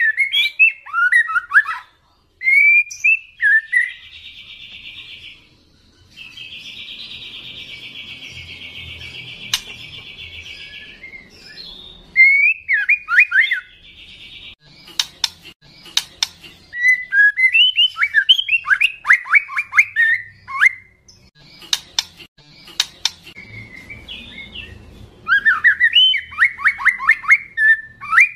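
Juvenile white-rumped shama singing: loud whistled phrases of quick downslurred notes, broken by a long buzzy rattle of about five seconds and by sharp clicks.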